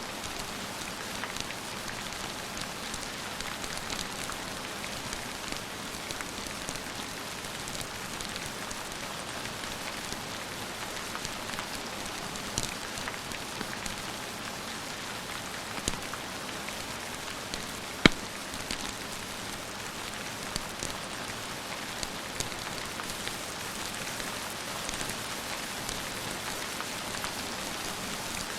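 Steady rain hissing, with a few sharp fireplace crackles scattered through it. The loudest crackle comes about two-thirds of the way in.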